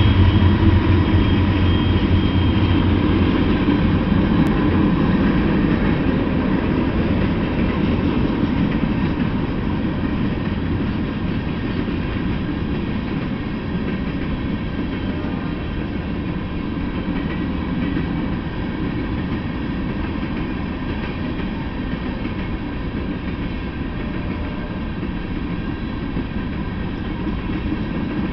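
Freight train passing: the low engine drone of a diesel locomotive fades in the first few seconds, then covered hopper cars roll steadily past on the rails, slowly growing quieter.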